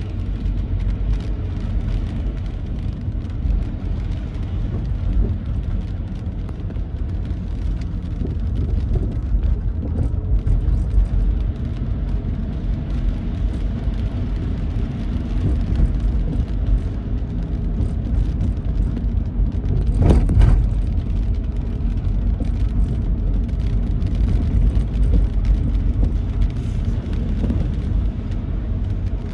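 Vehicle travelling on a rain-wet road: a steady low rumble of road and wind noise, with a brief louder rush about twenty seconds in.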